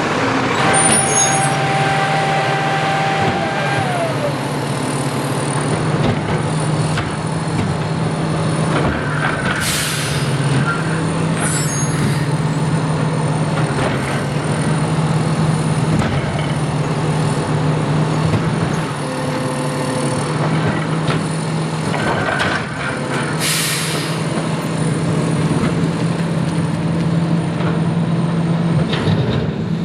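Freightliner Condor garbage truck's diesel engine running steadily, with sharp air-brake hisses about ten seconds in and again about two-thirds of the way through.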